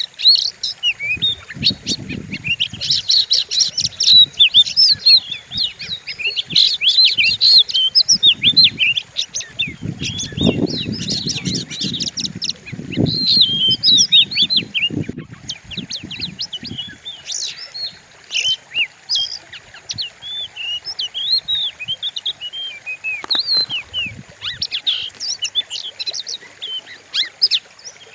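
Oriental magpie-robin (kacer) singing fast, harsh runs of chirps and whistles without pause. Low rumbling noise lies underneath in places, most of all through the middle of the song.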